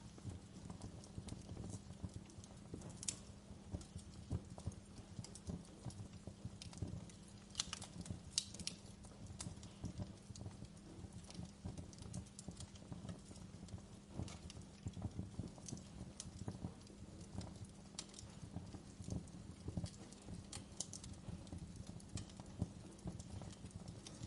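Wood fire crackling in a fireplace: a low steady rumble of flames under constant small crackles, with a few sharper pops scattered through.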